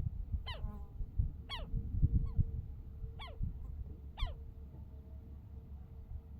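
A bird calling: about five short, downward-sweeping calls roughly a second apart, with a low rumble underneath.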